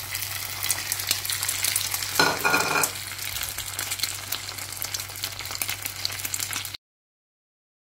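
Egg-dipped bread slices frying in hot oil in a nonstick pan, sizzling with a steady crackle of tiny pops. A little over two seconds in, a brief louder pitched sound rises above the sizzle for under a second.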